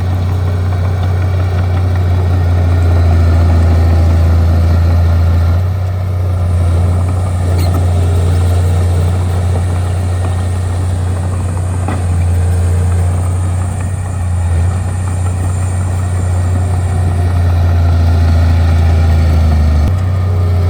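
Bulldozer's diesel engine running steadily with a deep drone, shifting slightly about six seconds in and again near the end.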